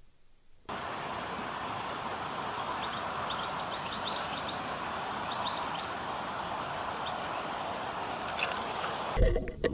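Outdoor ambience: a steady hiss of background noise with small birds chirping, a quick run of short high notes in the middle and a few more later. It follows a faint low hum for the first moment, and music comes in just before the end.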